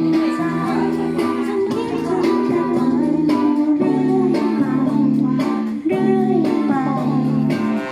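Music: a strummed guitar playing chords in a steady rhythm, with some singing over it.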